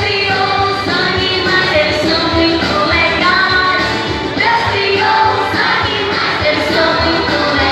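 Singing over backing music, with the melody moving in short phrases.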